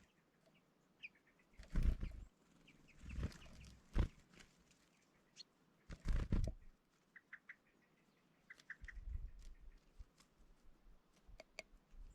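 Small birds chirping in short, high calls, with a few dull thumps or rustles scattered among them.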